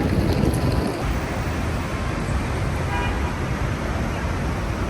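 Steady street traffic noise of a busy city street, with a brief tone, like a short horn toot, about three seconds in.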